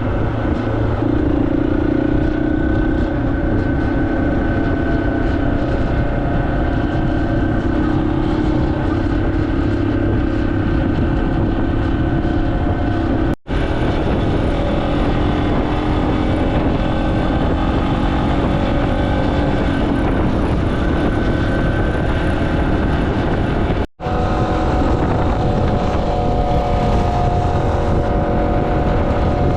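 Dual-sport motorcycle engine running at a steady cruising speed while riding, with a continuous rush of road noise. The sound cuts out briefly twice, about halfway through and again near the end.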